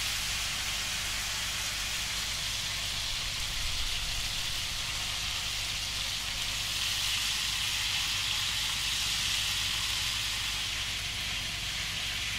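Chicken pieces sizzling steadily as they brown in hot olive oil in a large frying pan.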